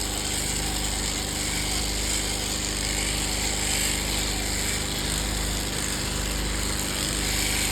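Electric sheep-shearing clippers running steadily.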